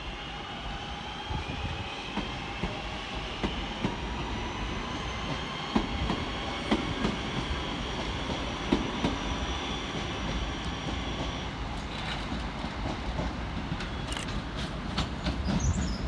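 Class 323 electric multiple unit pulling out of the station, its traction motors whining in several tones that rise slowly in pitch as it gathers speed, with the wheels knocking over rail joints. The whine fades out at about 11 seconds, and a run of sharp clicks follows near the end.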